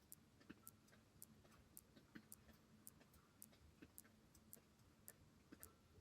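Faint, fairly regular high ticks, about two a second, over a low background hum.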